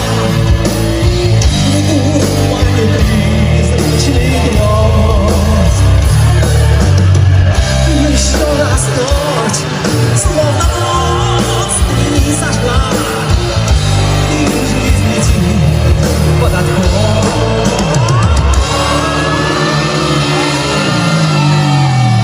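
Live rock band playing an instrumental break: loud, full band sound under a lead line with pitch bends, ending with a falling slide in the low notes just before the end.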